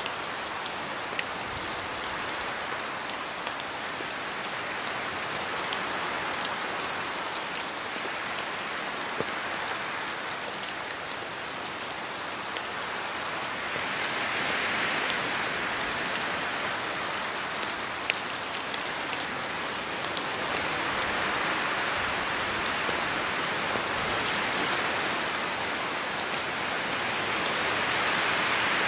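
Steady rain falling in a forest, with scattered drops ticking on surfaces. It swells a little louder about halfway through and again near the end.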